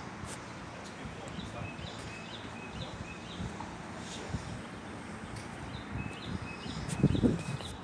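A songbird singing groups of short, high, stepping chirps, repeated several times, over a steady outdoor hiss. A few low bumps come near the end and are the loudest part.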